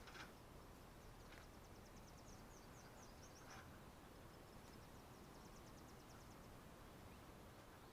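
Near silence with two faint, high, rapid ticking trills from a small animal, each lasting about two seconds, the first starting about a second in; a few soft short sounds come in between.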